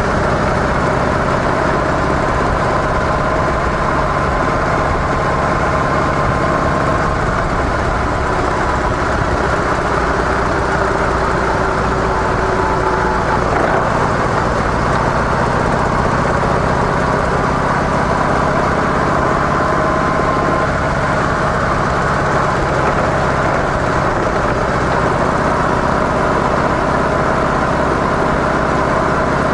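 Harley-Davidson CVO Softail's V-twin engine through its stock mufflers, running steadily with a low rumble.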